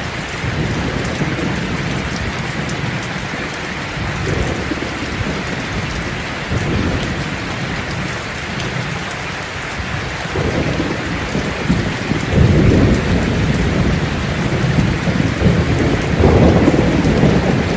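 Steady heavy rain falling, with rolls of thunder rumbling low several times, the strongest about two-thirds of the way through and again near the end.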